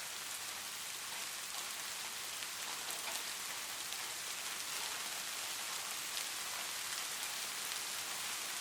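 Light rain falling steadily: an even, soft hiss with faint scattered ticks of individual drops.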